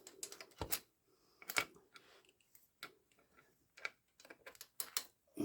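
Irregular metallic clicks and taps of hand tools and small parts being handled while refitting the motorcycle's clutch cover, with a couple of sharper knocks in the first two seconds.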